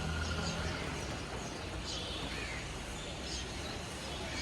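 Birds calling in short, high chirps, several times, over a steady outdoor background hiss and low hum.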